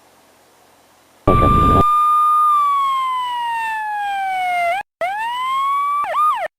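Police car's electronic siren starting with a short low blast. Its tone holds high, then falls slowly, breaks off, rises again and ends in two quick up-and-down yelps before cutting off.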